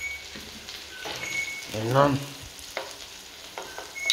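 Chicken wings sizzling steadily in hot oil in a non-stick frying pan, fully cooked and being taken out. There are a few light clicks and taps from silicone tongs as pieces are turned and lifted.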